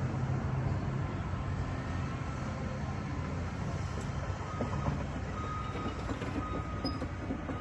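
Diesel engine of heavy demolition equipment running steadily with a low rumble. From about five seconds in, a faint reversing beeper sounds roughly once a second.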